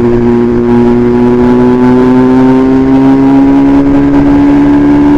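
BMW S1000RR inline-four engine running through an Austin Racing de-cat titanium exhaust, loud and held at steady throttle, its pitch rising slowly and smoothly.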